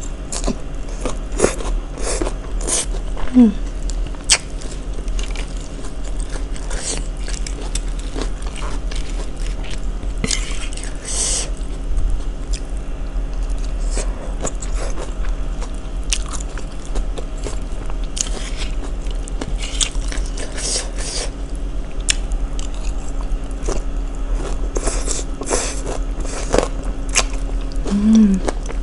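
Close-up chewing and biting of crisp raw vegetable salad (shredded cabbage, carrot, lettuce and bean sprouts in peanut sauce): wet, crisp crunches come irregularly all the way through. A steady low hum lies underneath.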